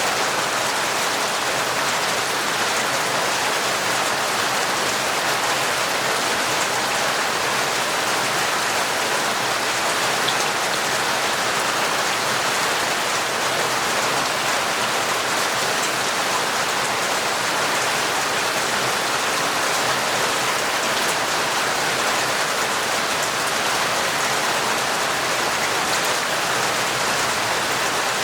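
Torrential rain falling steadily, an even, unbroken hiss of drops with no thunder.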